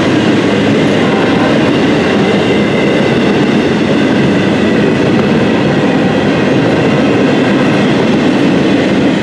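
A train running past close by: a loud, steady rumble and rattle of its wheels on the rails, with no horn.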